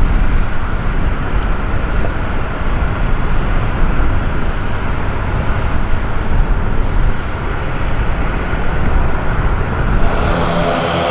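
Loud, steady roar of aircraft engines, heavy in the low end, without a clear propeller tone.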